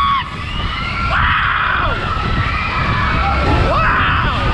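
Riders screaming and shouting in pitched, rising-and-falling cries aboard a Matterhorn fairground ride in motion, over a steady low rumble from the spinning ride.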